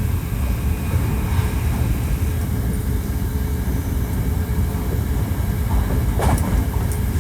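Hankyu 1300 series electric train running at speed, heard from inside the passenger car: a continuous heavy low rumble of wheels and running gear with a faint steady tone over it. A short scraping crackle comes about six seconds in.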